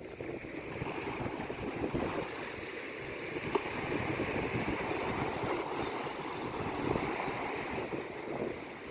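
Sea waves washing on the shore, a steady rush of surf that swells and eases slowly.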